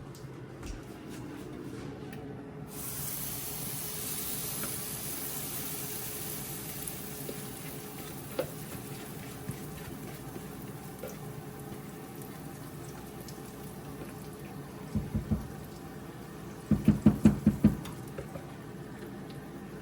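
Kitchen tap running as a steady rushing hiss that starts a few seconds in, then a few quick knocks followed by a louder rapid run of clattering knocks near the end.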